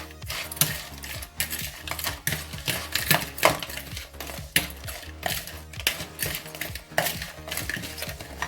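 Spoon or utensil clinking and scraping against a bowl as a crab salad is tossed and mixed, in quick irregular strokes, over a low steady hum.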